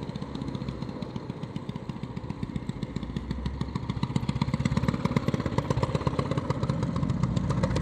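Motorcycle engine running at low speed with a rapid, even pulse that grows louder toward the end.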